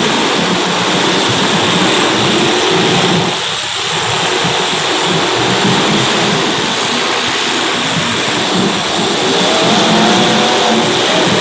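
Several race car engines running at speed together, their pitches wavering as they rev up and down, with one engine note climbing near the end.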